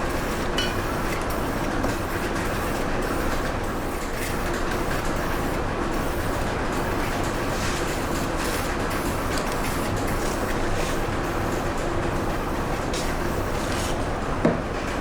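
Aerosol primer can spraying in short hissing passes over a steady background rumble.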